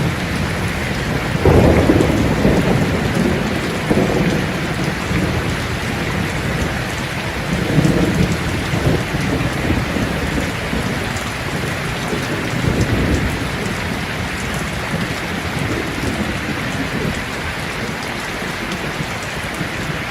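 Steady rain with low rolling rumbles of thunder. The strongest rumbles come about two seconds in and again near eight seconds.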